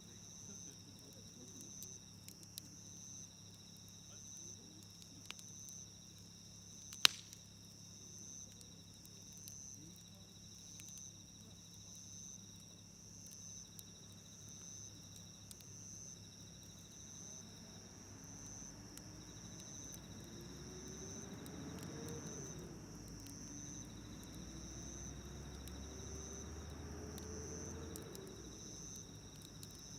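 Wood campfire crackling with sparse small pops and one loud pop about 7 seconds in, over a steady, pulsing chorus of crickets. In the second half a faint low drone comes in and rises in pitch twice.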